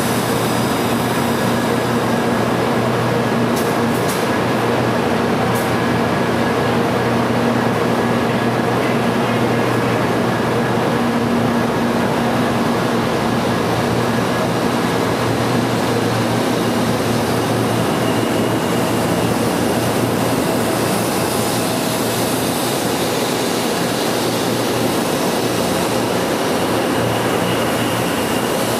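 A 0 Series Shinkansen train humming steadily at the platform with its electrical equipment running, then pulling away from the station. About two-thirds of the way through, a rising hiss and a high whine join in as the cars begin to roll past.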